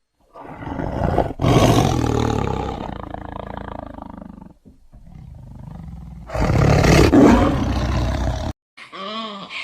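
A large animal roaring: one long, rough roar lasting about four seconds, then, after a short quieter stretch, a second, louder roar.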